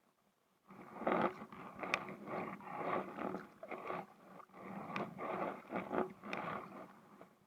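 Kayak paddle strokes in the water, splashing about once a second, starting just under a second in.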